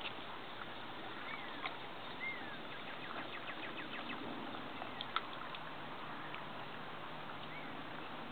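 Quiet outdoor ambience with a few short, arching bird chirps and scattered faint clicks; a low steady hum comes in about halfway through.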